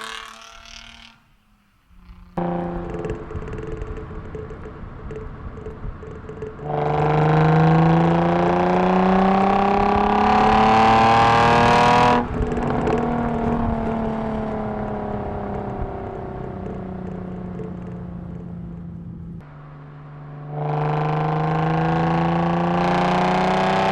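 Nissan 350Z's VQ35 V6 through an Invidia Gemini cat-back exhaust, heard at the tailpipe, pulling hard through a gear with a steadily rising pitch. The pull cuts off suddenly, and the engine note falls slowly as the car slows. Near the end it pulls hard again with a rising pitch.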